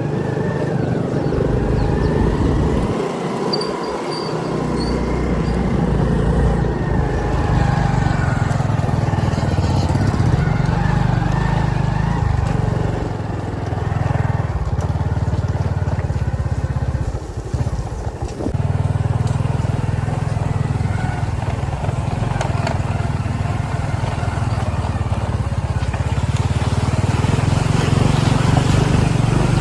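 A vehicle engine running steadily while travelling, easing off briefly about 3 seconds in and again about 18 seconds in.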